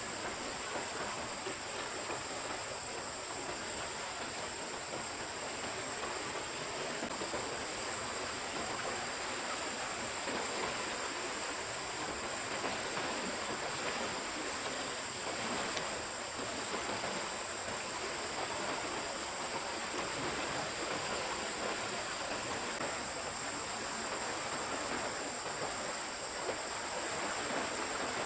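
Stream water running steadily, with a faint steady high-pitched whine above it.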